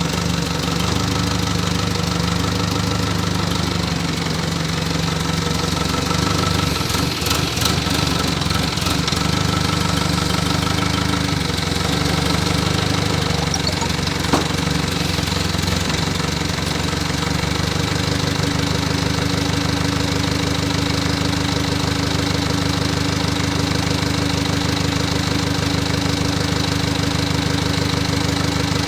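Diesel engine of a Moshito 25 kVA water-cooled generator running steadily, with a single sharp click about halfway through.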